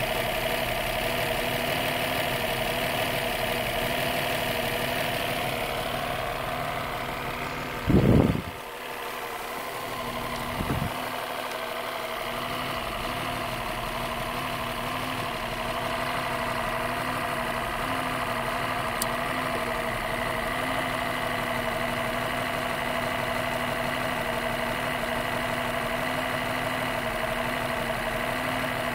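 Mercedes-Benz M180 inline-six engine idling steadily on a test stand, run there so its carburettor and ignition can be adjusted. A brief loud thump comes about eight seconds in and a smaller one about three seconds later.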